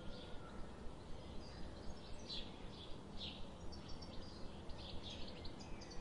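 Small songbirds chirping, many short high calls scattered throughout, over steady low background noise.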